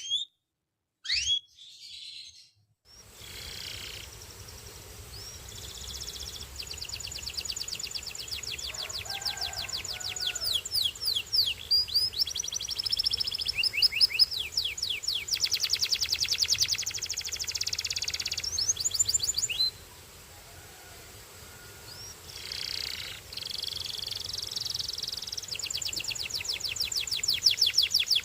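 A Belgian canary singing. It begins with a few separate chirps, then runs into long, rapid trills of quickly repeated sweeping notes, pausing briefly near two-thirds of the way through. A steady background hiss sets in about three seconds in.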